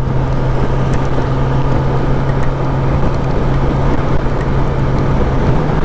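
Kawasaki ZX-10R's inline-four engine running at a steady cruise, with wind rushing past. The engine note steps up slightly near the end.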